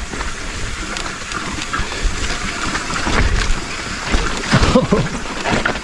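Mountain bike riding down a wet, rocky trail: tyres rolling through mud and puddles with a steady rumble, and frequent knocks and rattles from the bike over roots and rocks.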